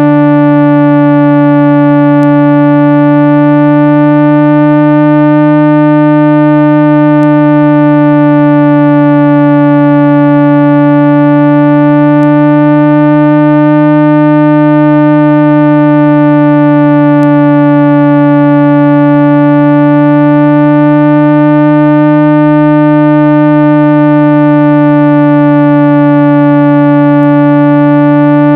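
Loud, steady synthesized low tone with a stack of overtones, played to vibrate a phone speaker's diaphragm and push water and dust out of the grille. It holds without a break, wavering gently every several seconds.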